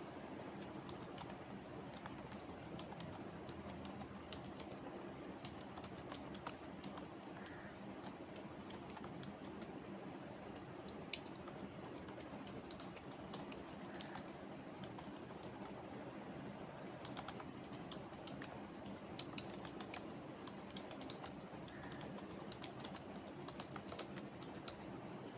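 Computer keyboard typing: irregular runs of keystroke clicks, thicker in the second half, over a faint steady background hum.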